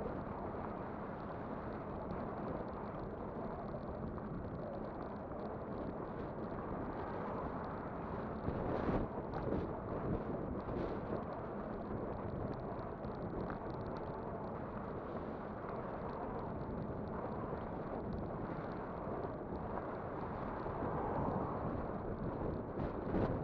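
Wind rushing over the microphone of an e-bike on the move, mixed with rumble from the tyres and the road. There are louder gusts about nine seconds in and near the end.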